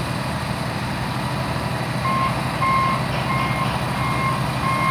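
Diesel engine of a heavy vehicle running steadily, and from about halfway in a reversing alarm beeping at a steady pace of about one and a half beeps a second as the vehicle backs up.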